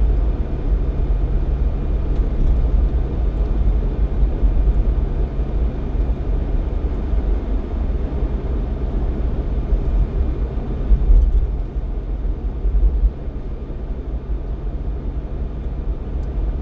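Jeep Cherokee XJ driving on a snowy mountain highway, heard from inside the cabin: a steady low rumble of engine and road noise, with a low engine hum that shifts in pitch about seven seconds in.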